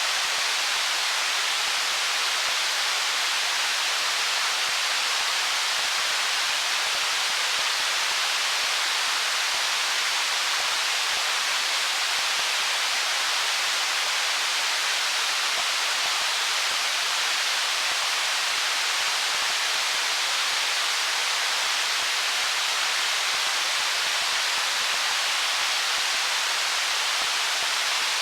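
Stream water running over stones: a steady, even rush with a hissy high-pitched quality and little low rumble, unchanging throughout.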